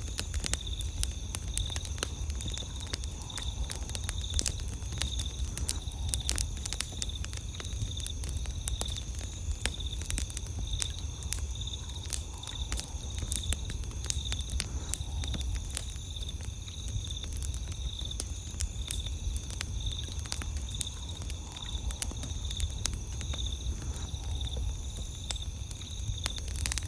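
Wood campfire crackling, with frequent irregular sharp pops and snaps, over a steady high trilling chorus of night insects and a low steady rumble.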